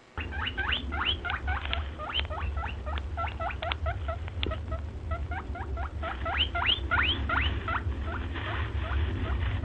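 A small animal squeaking over and over: short, high chirping squeaks, several a second, with a brief lull midway, over a steady low hum.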